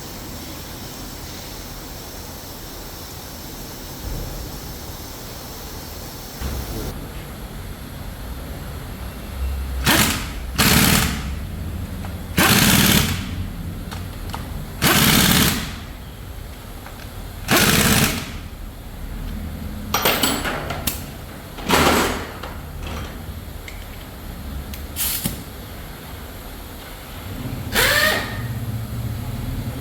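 A power tool running in short bursts, about nine times, every two to three seconds, over a steady hiss in an engine assembly line, typical of fasteners being driven on the engine.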